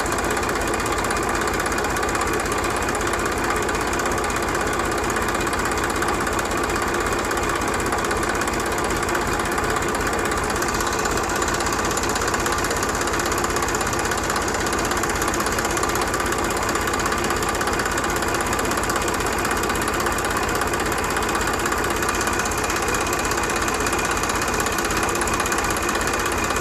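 Motor of a homemade miniature tractor running steadily at an even speed, with a fast, fine rattle.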